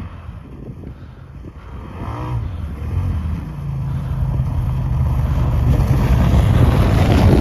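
Engine running steadily, growing louder from about two seconds in, with a brief pitch sweep around two seconds.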